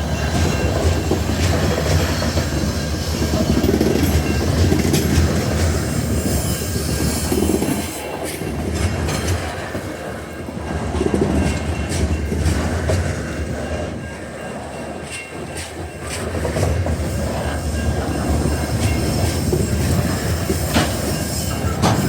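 Coal train wagons rolling past on a curve, making a continuous rumble and rattle of wheels on rail that eases off in the middle and builds again towards the end.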